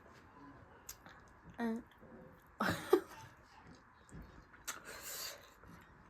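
A woman coughing and clearing her throat while eating spicy food, with the loudest cough about halfway through and breathy, noisy breaths a little later, a reaction to the heat of the chutney.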